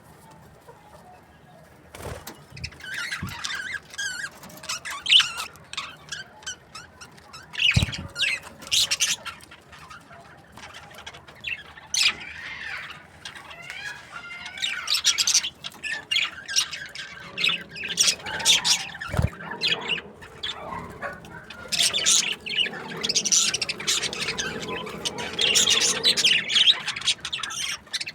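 A group of budgies chirping, chattering and squawking, many birds at once and busier in the second half. There are a few sharp knocks, about two seconds in, around eight seconds and near nineteen seconds.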